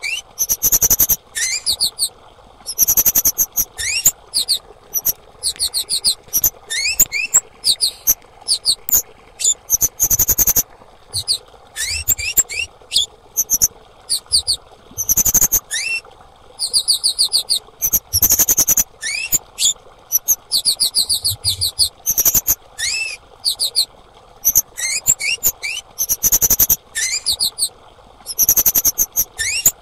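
Female kemade bird calling: short bouts of rapid, very high-pitched repeated chirps, each about half a second long, with short rising notes mixed in, coming every second or two. A lure or therapy call used to set captive kemade singing.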